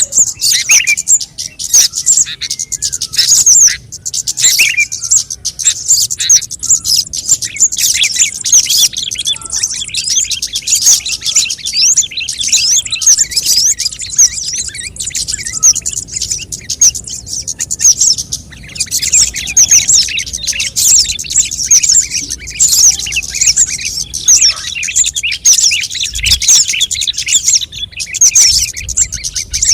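Scarlet-headed flowerpecker (cabe jawa) calls: rapid, high-pitched chirps that overlap densely and run on without a break. This is a lure call played to draw flowerpeckers in.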